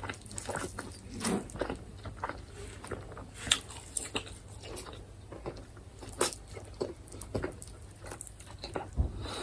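A person chewing and biting into chicken close to the microphone, with irregular wet smacks and crunches.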